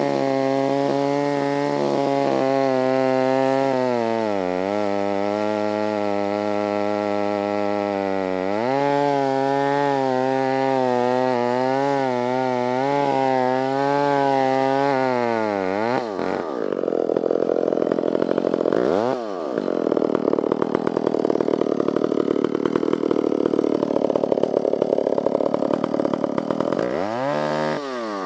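Stihl 056 two-stroke chainsaw with a 36-inch bar running at high revs, its pitch sagging and recovering twice. About halfway through, the pitch drops sharply as the chain bites into the dead elm. The engine then runs rougher under load, bogging down and picking up again twice while cutting.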